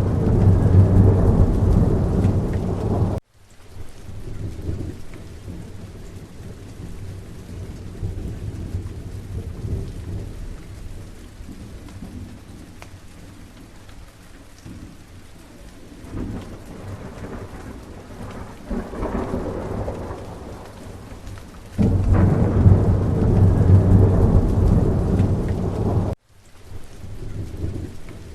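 Steady rain with rolling thunder. Deep rumbles are loudest over the first three seconds and again from about 22 to 26 seconds in, each stopping suddenly, with quieter rumbling under the rain in between.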